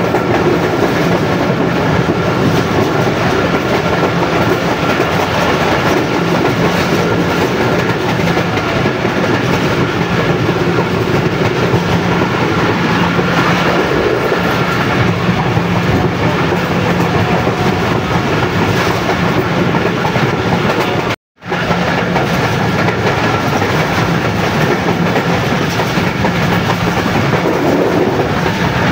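Passenger train running at speed, heard from aboard: a steady rumble of the coach's wheels on the rails. The sound cuts out for a split second about 21 seconds in.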